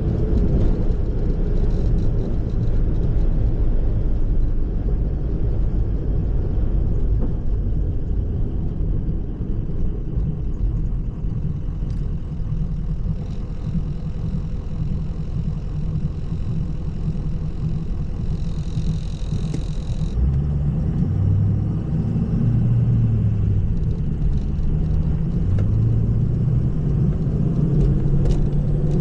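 A motor vehicle on the move: steady engine and road rumble. A high whine sounds briefly about two-thirds of the way in, and after that the engine note rises and falls with speed.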